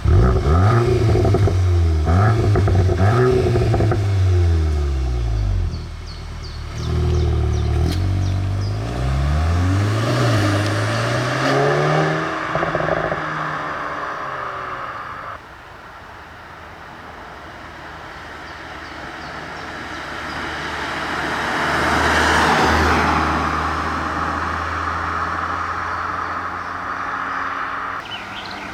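Audi S3's turbocharged 2.0-litre four-cylinder with Akrapovic exhaust accelerating through the gears, the engine note climbing and dropping back several times in quick succession as the 7-speed automatic shifts up. After that the engine settles to a steady low hum while a rushing noise swells and fades about two-thirds of the way through.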